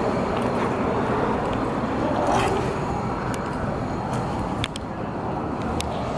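Steady background noise of car engines running, with a few sharp clicks in the middle.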